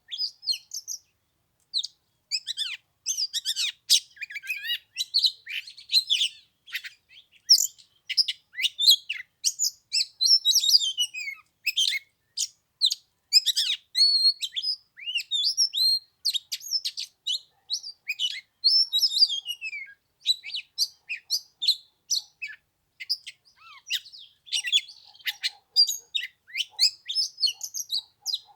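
Oriental magpie-robin singing continuously: a rapid, varied run of sweet whistles, chirps and trills with quick rising and falling notes.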